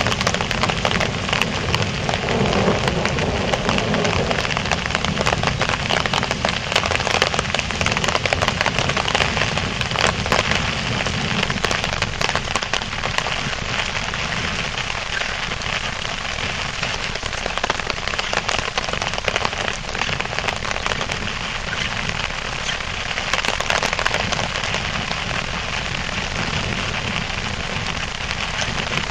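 Heavy rain hitting a clear plastic bike umbrella overhead and the wet paving: a steady, dense patter of drops.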